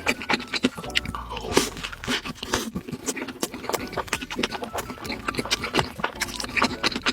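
Close-miked mukbang eating sounds: a person biting and chewing spicy tteokbokki and nuggets, a rapid, irregular run of wet, crackly mouth clicks and crunches.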